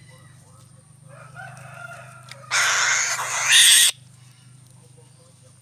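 A bird calling: a fainter pitched call about a second in, then a loud, harsh call lasting a little over a second, with a steady low hum underneath.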